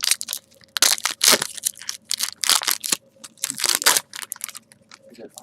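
Trading-card pack wrappers being torn open and crinkled in the hands, an irregular run of crackling rustles.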